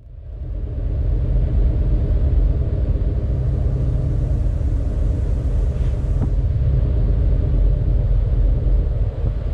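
Steady low rumble of a moving vehicle, fading in at the start and holding even throughout.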